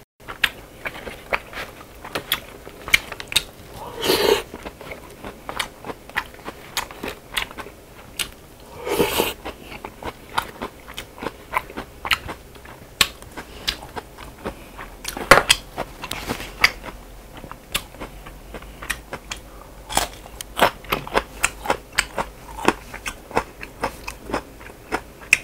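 Close-miked eating of buckwheat noodles and pork trotters: continuous wet chewing with many small mouth clicks, and two louder short slurps of noodles about 4 and 9 seconds in.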